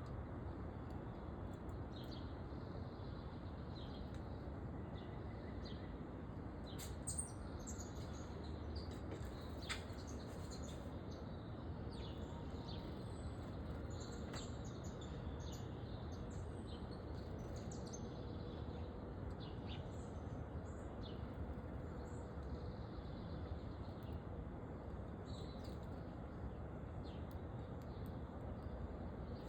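Small backyard birds chirping: many short, high chirps scattered irregularly over a steady low background noise, with a few brief clicks.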